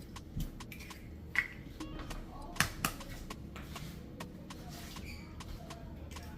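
Light kitchen clatter: scattered clicks and taps of dishes and utensils, with faint music and distant voices in the background.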